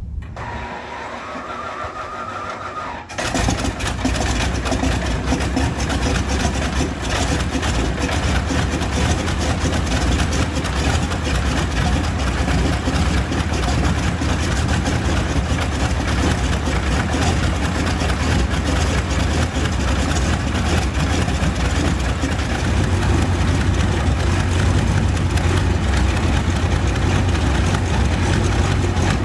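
1943 Boeing Stearman biplane's radial engine starting. A rising whine from the starter for about three seconds, then the engine catches suddenly and settles into a steady, loud idle.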